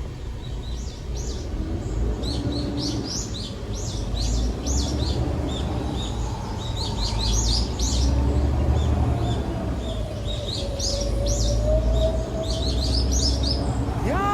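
Small birds chirping repeatedly in quick short calls over a steady low rumble.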